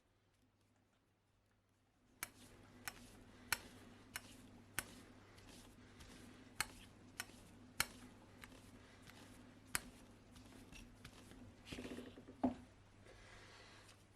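Sharp metallic clicks and clinks at irregular intervals from cutting a small thread by hand in metal, over a faint steady hum, with a brief scrape near the end.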